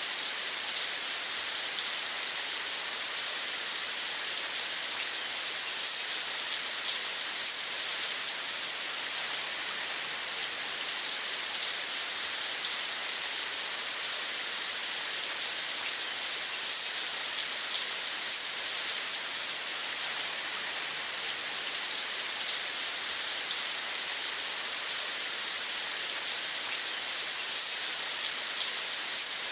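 Steady rain falling, an even hiss with fine patter of drops that does not change.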